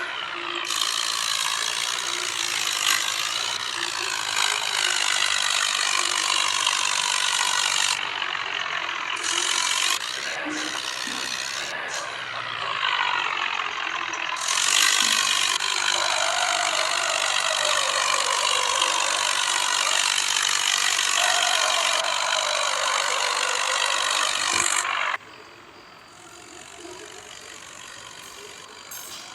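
A loud mechanical whirr with a ratcheting, gear-like rattle, its pitch rising and falling. It drops off abruptly near the end to a much quieter version of the same sound.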